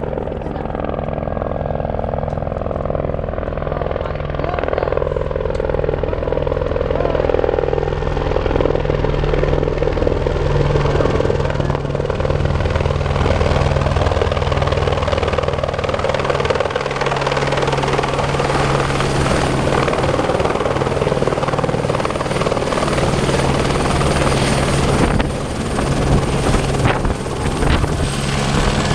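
Helicopter coming in to land, its rotors beating steadily while a rushing noise grows louder and brighter through the first half.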